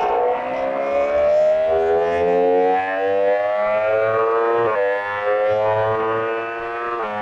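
Motorcycle engine under acceleration, its pitch climbing slowly, with short breaks about four and a half seconds in and again near the end.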